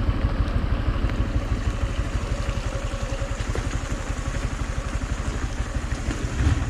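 Yamaha MT-15's single-cylinder engine running at low, steady revs, its firing pulses even throughout.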